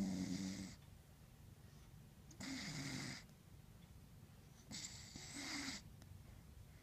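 Sleeping dog snoring: three slow snores about two seconds apart, each a short rasp with a low pitched tone in it.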